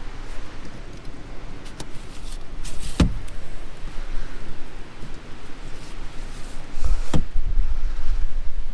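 Windows on a truck camper topper being opened, with two sharp latch clicks about three seconds apart. Strong wind buffets the microphone throughout, heavier near the end.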